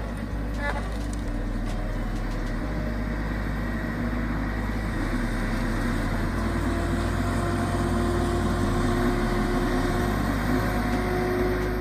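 Tracked feller buncher's engine running steadily under work, slowly growing louder.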